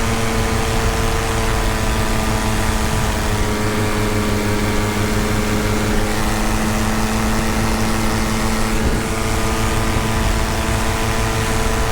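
Tandem paramotor engine and propeller running at a steady cruise throttle in flight, a constant drone with no change in pitch.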